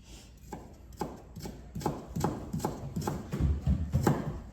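A steady run of short, hard knocks, about three a second, starting about half a second in and stopping near the end.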